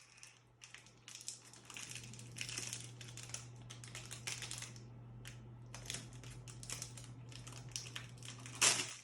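A plastic toy packet being opened and crumpled by hand: a run of crinkling crackles, with a louder rustle near the end. A steady low hum sits underneath from about two seconds in.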